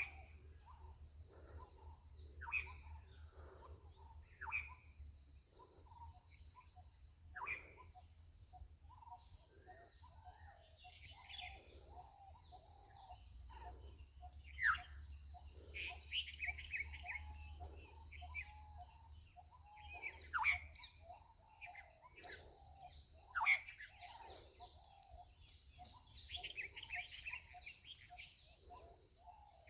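Outdoor bird calls: sharp calls sweeping downward in pitch come about every few seconds, six or so in all, between bouts of rapid chattering chirps. A steady high, thin drone runs underneath.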